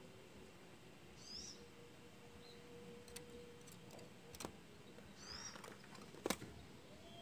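Quiet background with two short, high chirps from small birds, about one second and five seconds in, and a few sharp clicks, the loudest about six seconds in. No dove cooing.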